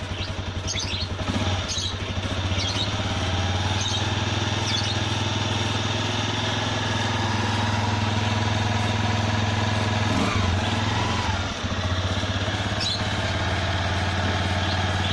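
Honda CG 125 Cargo's single-cylinder four-stroke engine idling steadily through an aftermarket Akrapovic exhaust, at an even, unchanging pitch.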